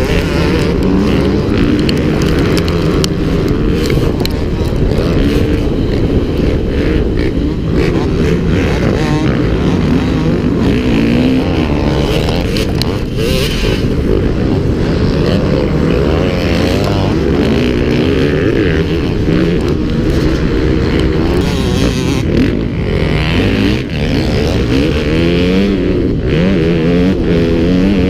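Motocross bike engine revving up and down repeatedly, its pitch rising and falling over a constant low rumble.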